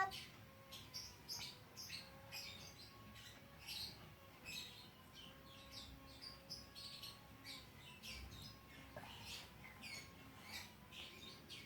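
Small birds chirping faintly in many short, irregular high calls, over a faint steady tone.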